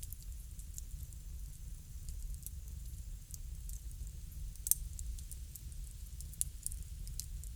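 Wood fire crackling, with irregular sharp pops over a steady low rumble; the loudest pop comes a little past halfway.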